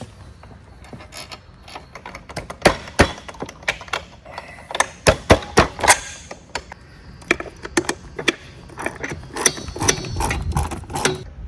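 Irregular sharp metallic clicks and knocks of hand tools and metal parts as a wing creeper is bolted together, with a denser run of clicking near the end.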